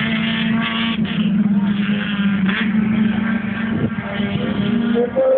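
Race car engine running at a steady, nearly unchanging pitch as a car goes round the circuit, the note stopping about five seconds in.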